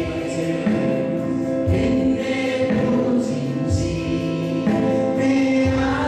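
Choir or congregation singing a Telugu Christian worship song with instruments, the voices holding long notes over a steady bass line.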